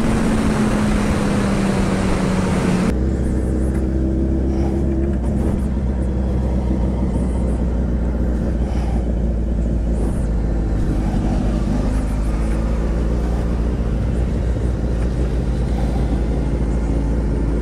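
Suzuki Hayabusa inline-four engine heard from on board with wind rush. For the first three seconds its revs fall as the bike slows. Then, after an abrupt change, the engine runs steadily with a deep low rumble and much less wind noise.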